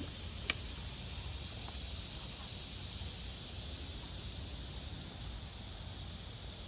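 Steady outdoor background of insects droning in a high hiss over a low rumble, with one sharp click about half a second in.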